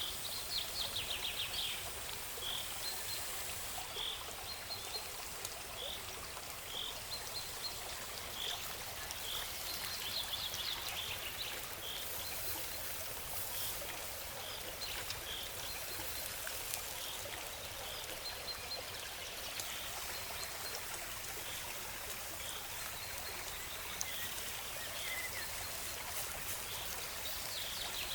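Steady rush of a flowing stream, with a bird repeating a short high call about once a second and giving a few brief trills.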